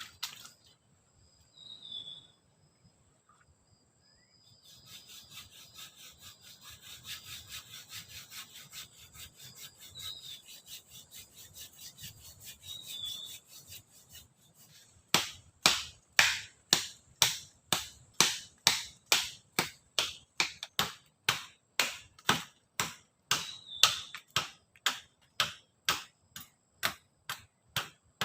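Wood being cut with a hand saw: light, quick strokes at first, then from about halfway a steady run of harder strokes about two a second. A few short bird chirps sound over it.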